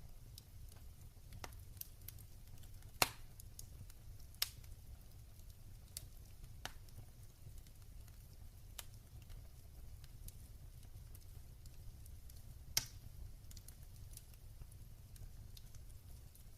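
Wood fire burning in a fireplace: a low steady rumble with sparse crackles and a few sharp pops, the loudest about three seconds in, another a second and a half later, and one near the end.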